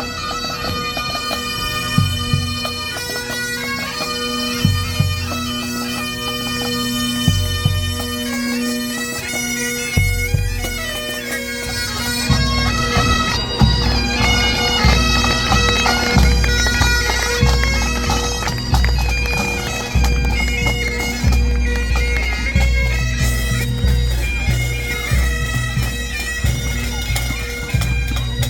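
Pipe band playing in a street parade: bagpipes with their steady drone under the melody, and drums beating, heavier from about halfway through.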